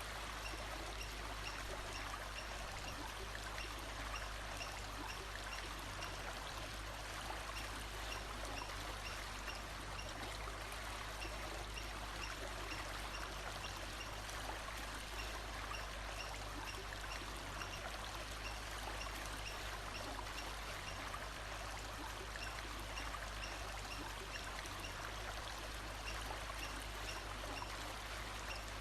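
Stream of water running steadily, with a faint high note repeating about once a second above it.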